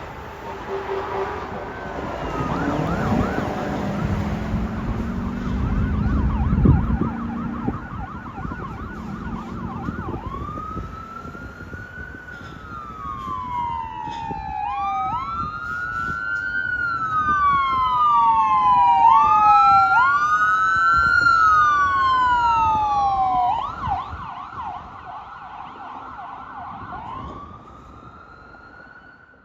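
Fire engine's electronic siren going by on a call: a fast yelp, then several slow rising-and-falling wails, then a short yelp again, growing loudest partway through and fading away near the end. A heavy low rumble from the truck runs under the first several seconds.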